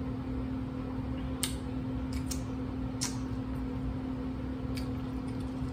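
Steady low room hum with one constant tone, broken by a handful of faint, short clicks.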